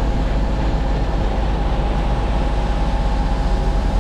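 Diesel engines of a concrete boom pump truck and a ready-mix truck running steadily under load, with a low, buffeting wind rumble on the microphone.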